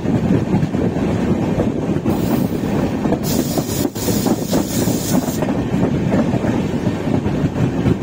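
Swarna Shatabdi Express passenger train running along the track, with a steady rumble and rattle of wheels on rails. A high hiss joins in about three seconds in and lasts about two seconds.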